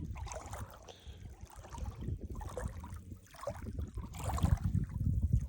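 Legs wading through shallow swamp water, with repeated sloshing and splashing at irregular steps.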